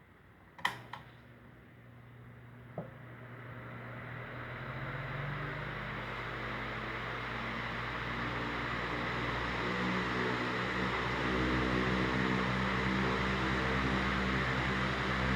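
Britânia C50 electric fan switched on with a couple of clicks from its switch, then its motor humming as the blades spin up, the rush of air building steadily over about ten seconds and then holding steady.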